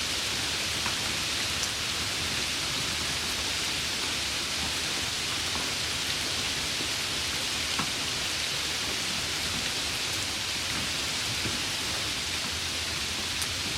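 Steady rain: an even hiss of rainfall with scattered sharper drop ticks, holding constant throughout.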